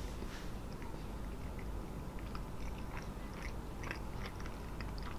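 A person chewing a bite of Cadbury Twirl flaky milk chocolate, with faint scattered crackles as the flaky chocolate crumbles in the mouth.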